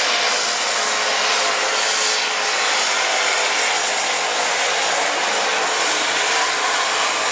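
Super Stock Open pulling tractor's engine at full throttle during a pull, a loud, steady, high-revving noise.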